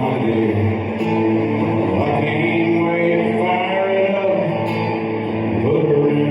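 Live country band playing, with singing over guitar.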